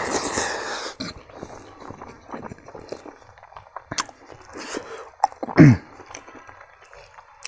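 A person chewing a mouthful of smoked pork and rice close to the microphone, with wet mouth clicks and smacks; the loudest mouth noise comes in the first second. About five and a half seconds in there is a brief low vocal sound that falls in pitch.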